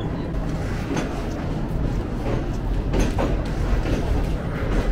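Green Line Express passenger train running along the track: a steady rumble from the wheels and carriage, with a few faint clicks.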